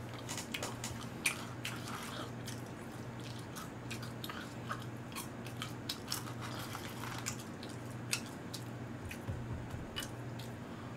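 A man chewing and biting mouthfuls of a burger and fries, with scattered soft clicks and mouth smacks over a low steady hum.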